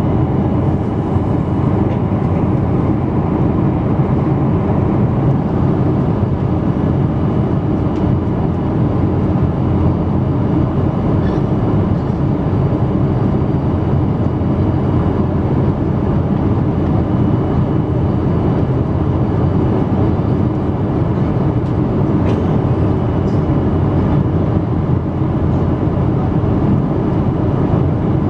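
Steady cabin noise inside a Boeing 777-200 airliner: an even roar of the engines and airflow with a low rumble, unchanging throughout.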